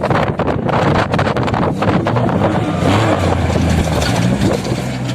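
Off-road vehicle engine revving up and down with heavy wind noise on the microphone. The first couple of seconds are mostly crackling wind and terrain noise. The engine's pitch rises and falls over the rest.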